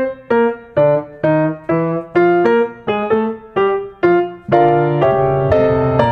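Background piano music: a melody of struck notes, about two a second, each fading before the next, with fuller chords near the end.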